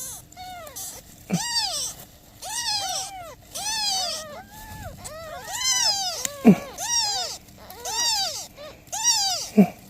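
Newborn kittens mewing over and over in short, high-pitched cries that rise and fall, about one or two a second. A few short, lower calls that drop steeply in pitch come in among them.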